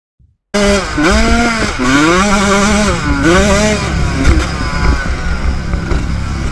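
Motocross bike engine revving, its pitch rising and falling several times over a heavy low rumble. It cuts in suddenly about half a second in.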